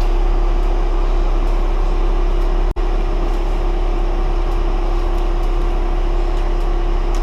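Steady, loud mechanical drone with a constant low hum and a steady mid-pitched tone. It cuts out for an instant a little under three seconds in.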